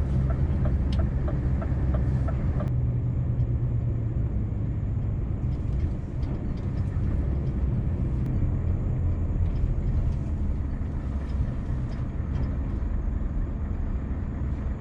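Scania V8 truck engine running steadily under way, a deep rumble heard from inside the cab. A quick, even ticking, about three a second, runs for the first few seconds and then stops.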